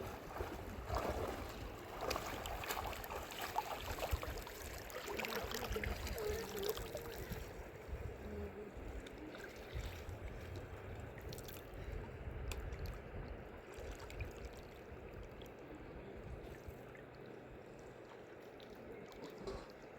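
Fast river water rushing, a steady noisy flow with a low rumble, growing quieter in the second half.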